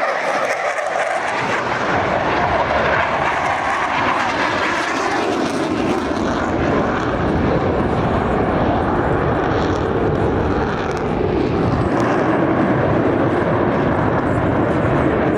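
Loud, steady jet engine noise from a Blue Angels jet flying at an airshow; the deep rumble builds in about two seconds in and holds.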